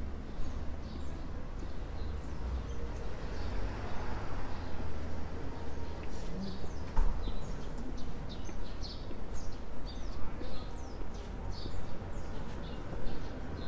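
Small birds chirping in quick, repeated short calls, growing busier in the second half, over a steady low rumble of background noise.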